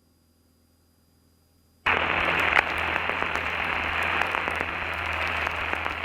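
Aircraft radio receiver static on the ATIS frequency, heard through the headset audio feed. It is near silence for about two seconds, then a steady hiss starts suddenly, with scattered faint crackles.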